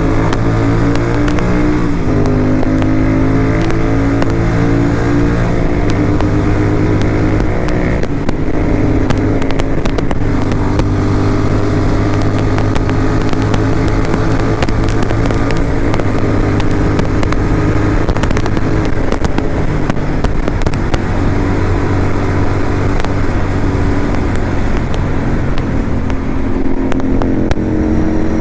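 Motorcycle engine running steadily while riding, its pitch stepping down about two seconds in and shifting again around eight seconds in with throttle or gear changes, over a constant rushing road noise.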